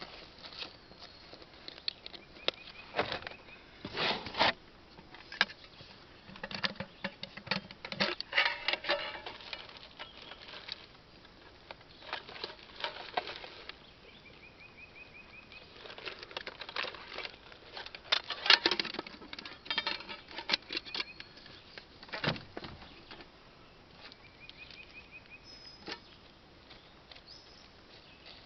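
Close handling noises: irregular rustling, scraping and clicking in short bursts, the loudest about 4, 8 and 18 seconds in, as fire-lighting gear and matches are dug out and handled.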